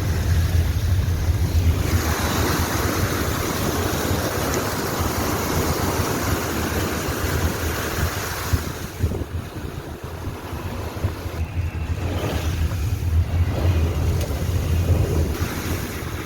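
Car driving through floodwater: a steady low rumble of the engine and cabin, with the rush and splash of water against the car, heaviest in the first half.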